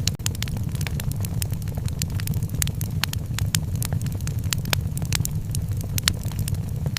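Wood fire crackling in a fireplace: many sharp, irregular pops and snaps, several a second, over a steady low rumble.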